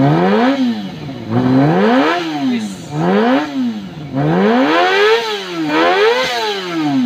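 Kawasaki ZX25R's 250 cc inline-four revved hard about five times at standstill through a Prospeed aftermarket exhaust, the pitch climbing and falling back with each blip of the throttle. The exhaust note is more bassy.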